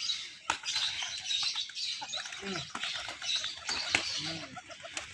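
Small birds chirping, with faint voices in the background and a few sharp clicks.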